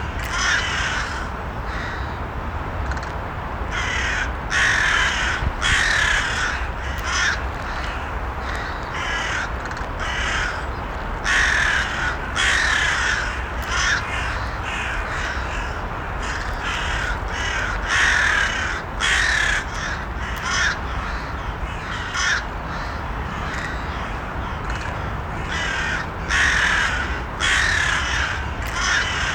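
Crows cawing repeatedly, in short runs of calls every second or two, over steady low background noise.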